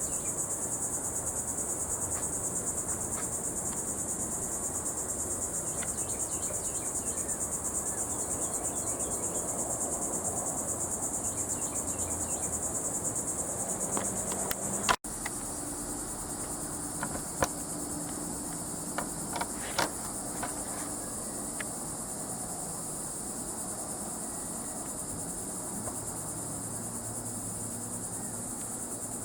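Steady, high-pitched chorus of insects. About halfway through it cuts out for a moment with a sharp click, then carries on, with a few light clicks soon after.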